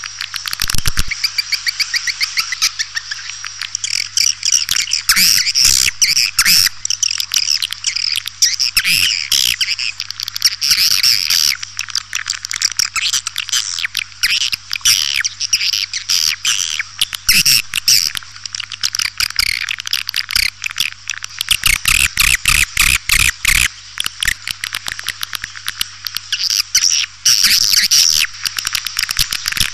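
Recorded swiftlet calls (burung walet): a dense, continuous chatter of fast twittering chirps and clicks, the 'panggil' lure call played to draw swiftlets into a nesting house. A faint steady low hum runs underneath.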